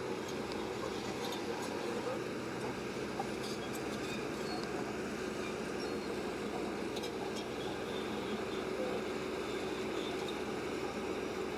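Diesel engine of heavy earthmoving machinery running steadily, with faint clicks now and then.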